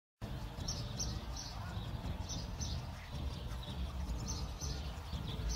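Small birds chirping outdoors: short high chirps repeated every half second or so, over a steady low rumble.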